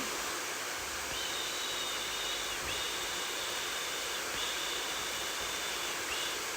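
Hair dryer blowing with a steady, even hiss. A faint high whine comes and goes in several stretches from about a second in.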